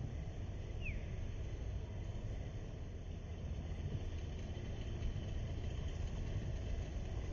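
Steady low outdoor rumble, like distant traffic or wind, with one short falling bird whistle about a second in.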